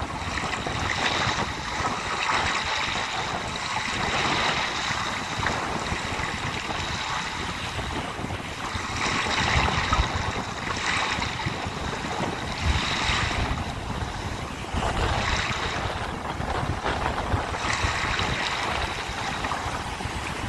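Sea waves breaking and washing ashore, swelling and ebbing every few seconds, with wind buffeting the microphone in low rumbles.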